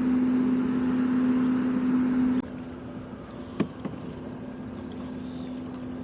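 Steady engine drone with a constant-pitched hum, loud at first and dropping sharply in level about two and a half seconds in, then running on more faintly. A single light knock comes about three and a half seconds in.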